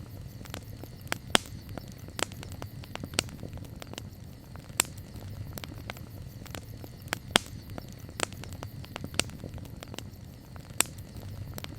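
Wood campfire crackling, with sharp irregular pops and snaps, a few of them loud, over a low steady rumble.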